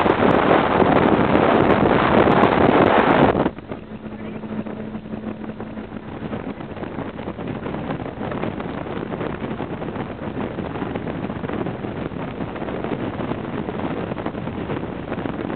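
Wind and road noise inside a moving 1930 Model A Ford, a loud rush for about the first three seconds that drops off suddenly to a quieter steady rush with a faint low hum.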